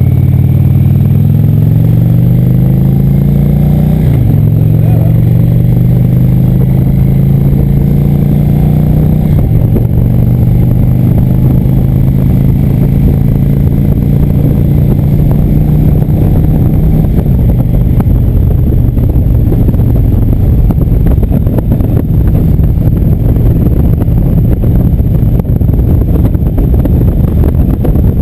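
Indian motorcycle engine pulling up through the gears: the revs rise, drop at an upshift about four seconds in, rise again and drop at a second shift around nine seconds, then hold steady at cruising speed. In the second half, wind rushing over the microphone covers most of the engine.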